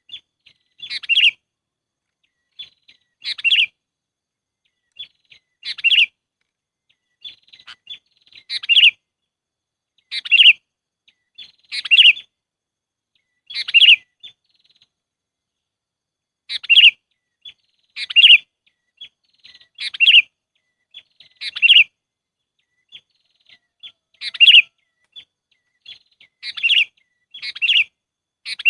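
Sooty-headed bulbul (kutilang) calling: short, bright chirped phrases repeated about every two seconds, with a few faint single notes between, as played for a bird-trapping lure.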